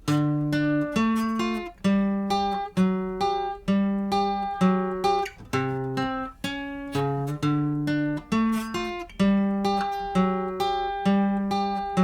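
Acoustic guitar strumming a chord progression in a steady rhythm, each strum ringing out before the next, with the chords changing every couple of seconds.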